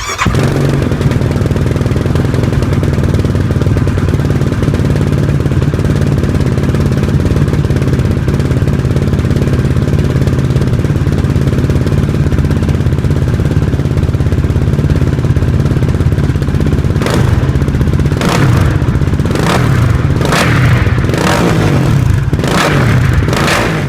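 Yamaha YFZ450R's single-cylinder four-stroke engine through a GYTR slip-on muffler, idling steadily, then given about six quick throttle blips over the last several seconds.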